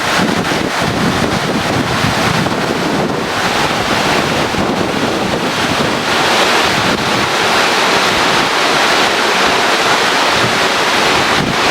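Creek water rushing over a weir: a steady, loud rush that turns brighter and hissier about halfway through.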